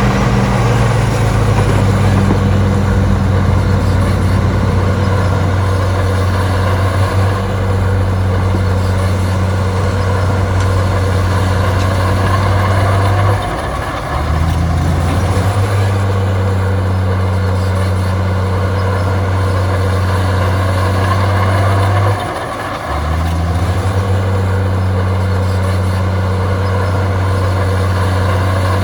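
Heavy diesel engine of earthmoving machinery running steadily and loudly. Its speed drops briefly twice, about halfway through and again near three quarters of the way, then picks up again.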